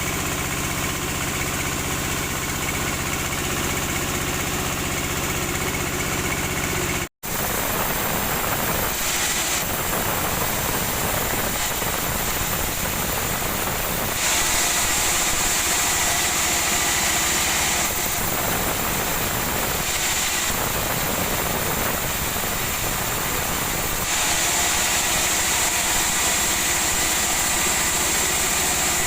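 Sawmill machinery running. It starts as a steady motor hum. After a sudden cut about seven seconds in, it turns to a harsher, noisier machine sound that swells louder for several seconds at a time, twice.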